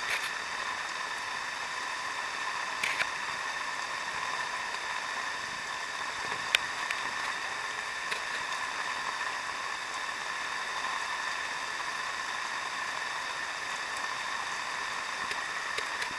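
Steady downpour of typhoon rain, a constant hiss of falling and running water, with a few brief sharp taps.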